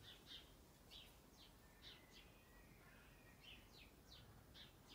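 Faint birdsong: a dozen or so short, quick falling chirps, high-pitched, over a quiet background.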